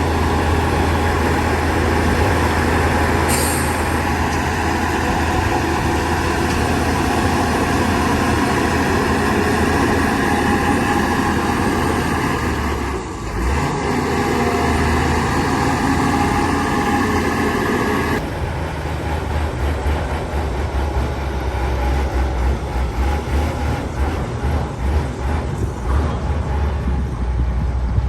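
Heavy diesel engines of a bulldozer and dump trucks working, a steady low rumble, with a short high hiss about three seconds in. After about eighteen seconds the sound becomes uneven and pulsing.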